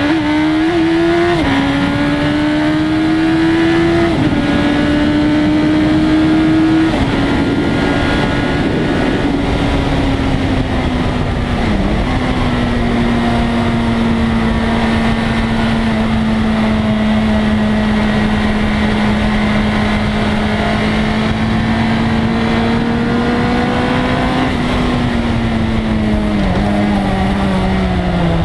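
1997 Suzuki GSX-R1100's inline-four engine running hard: it revs up and shifts up about one and four seconds in, then holds a long steady note. Near the end the pitch falls away as the bike slows.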